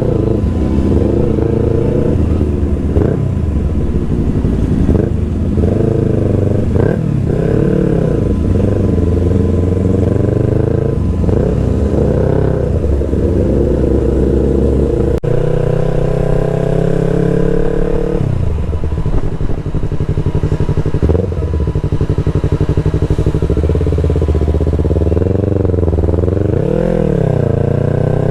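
Yamaha R3's parallel-twin engine with an aftermarket exhaust, ridden and rising and falling in pitch again and again as the throttle opens and closes.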